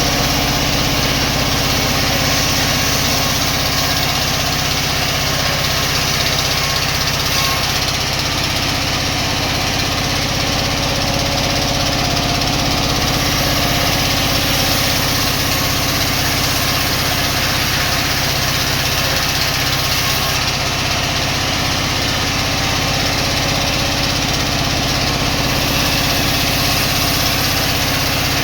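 Sawmill machinery running steadily: a constant low engine-like hum under an even hiss, with no change in pitch or level.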